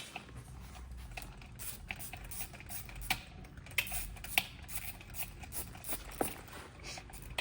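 Irregular light metallic clicks and taps from tools and parts being handled on an engine being taken apart, with a few sharper knocks about three and four seconds in and again near six seconds.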